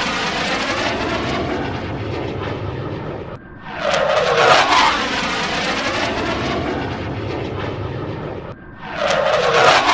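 Vehicle pass-by sound effect, looped: a loud whoosh swelling to a peak and then a steady rushing noise, cut off and started again about every five seconds.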